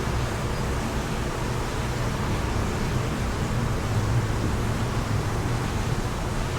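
Steady wind, an even rushing noise with a low rumble underneath.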